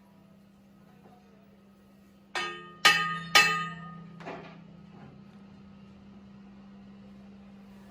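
Three sharp hammer blows on steel about half a second apart, each ringing briefly, then a weaker fourth, over a steady machine hum.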